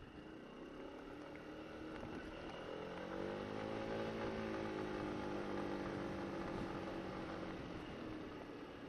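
Honda SH150i scooter's single-cylinder engine accelerating: the engine note rises a few seconds in, holds steady as the automatic transmission takes up the speed, then eases off near the end, over a steady rush of road and wind noise.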